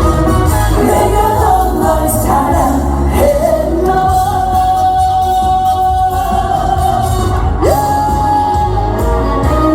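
Male trot singer singing live over loud accompaniment with a heavy bass. He holds a long note in the middle, then slides up into another held note near the end.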